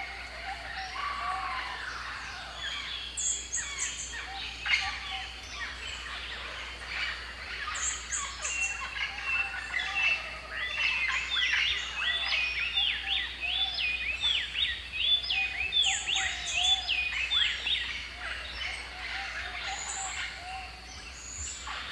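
Several birds calling and chirping at once, a busy mixed chorus. A run of quick repeated chirps in the middle, with short high trills several times over.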